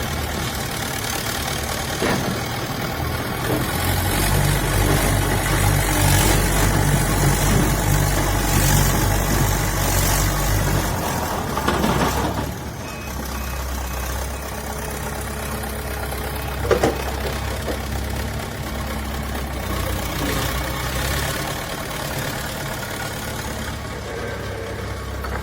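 Heavy construction machine's diesel engine running steadily. It works harder and louder for several seconds, then settles back to a lower steady run, with a single short knock partway through.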